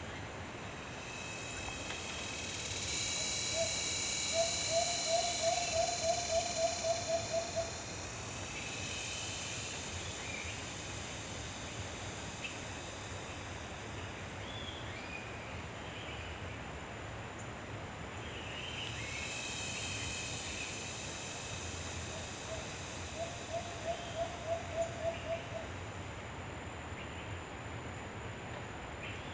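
Outdoor nature ambience: a bird gives a rapid series of about ten hooting notes, twice, each run lasting three to four seconds. A high buzzing chorus swells and fades under each run.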